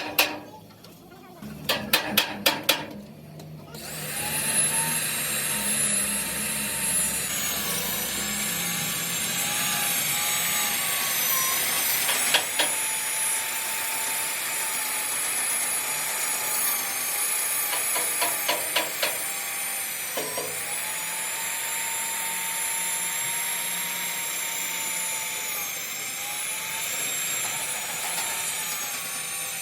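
A few sharp knocks at the start, then a power tool starts up and runs with a steady high whine. Its pitch sags briefly a few times as it is pressed into the work.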